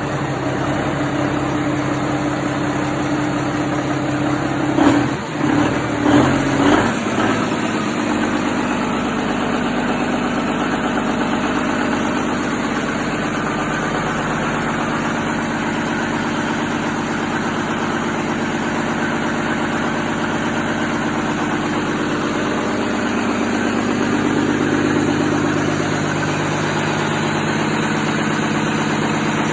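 Komatsu SA6D170E-2 six-cylinder turbo diesel, freshly rebuilt, idling steadily just after starting. About five to seven seconds in there are a few loud uneven jolts and the engine note shifts, then it settles back to an even idle.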